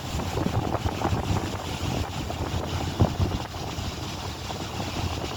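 Wind buffeting the microphone: a gusty low rumble with a sharper bump about three seconds in.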